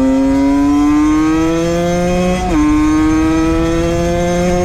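Valenti 50 motard's small two-stroke engine with its Scalvini exhaust accelerating under load. The pitch climbs steadily, drops at an upshift about two and a half seconds in, then climbs again to another shift near the end.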